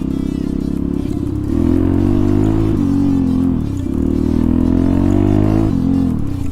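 Motorcycle engine being ridden hard: its pitch climbs under throttle, falls away about three seconds in, climbs again and drops off near the end.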